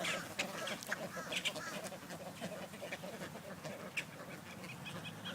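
Flock of ducks crowding close and calling, with many short, soft quacks and clicks overlapping.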